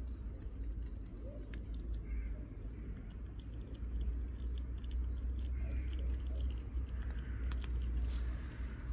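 Street cat chewing food, with scattered small crunching clicks, over a steady low rumble.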